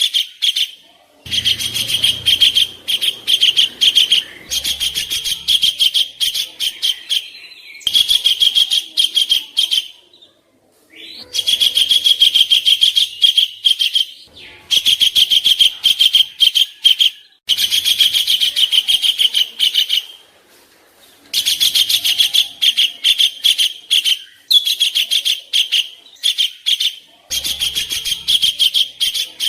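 Songbird giving harsh, rough 'kasaran' chatter: rapid strings of scratchy notes in bouts of one to three seconds, broken by short pauses, the kind of song used as a master for training contest birds.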